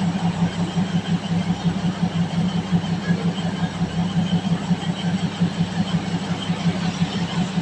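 Diesel train engine idling steadily with an even throb, standing at the platform.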